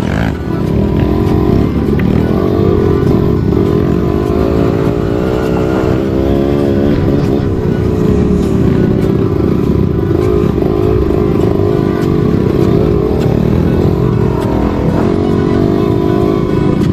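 Trail motorcycle engine running as it is ridden over rough ground, the revs rising and falling with the throttle.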